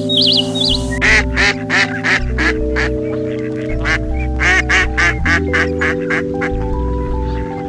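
Mallard ducks quacking over and over in quick runs of several calls a second, starting about a second in, over steady background music.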